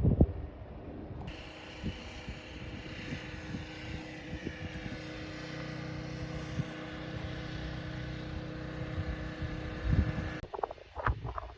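Electric train running, with several steady whining tones over its running noise. It begins abruptly about a second in and cuts off near the end, giving way to wind noise and a few knocks.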